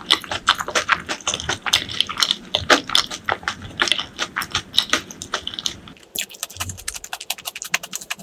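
Close-miked eating sounds: a person chewing food with a rapid run of wet, crunchy clicks. About six seconds in the sound changes to thinner, faster crackling.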